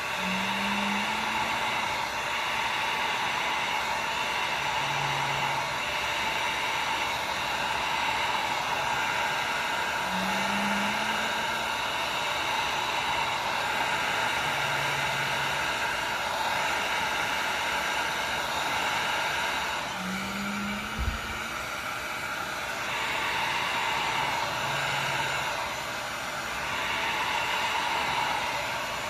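Electric heat gun blowing steadily, its hot air spreading and drying alcohol ink and rubbing alcohol on a stainless steel tumbler. The noise eases briefly twice, and one short knock comes about two-thirds of the way through.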